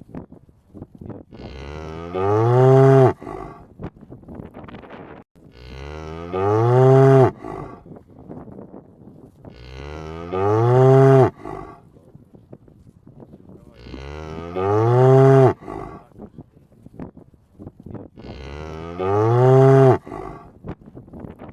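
A cow mooing: five loud moos of the same shape, one about every four seconds, each rising slightly in pitch and then holding. Faint clicks and rustling come between the calls.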